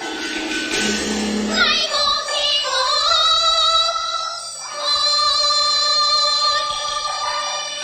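Teochew opera singing with its instrumental accompaniment: a voice holds long, wavering notes in two drawn-out phrases, the second starting about five seconds in.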